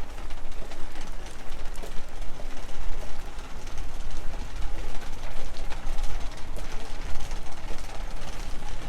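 Outdoor city street ambience: a steady low rumble with many small clicks and knocks, and birds calling.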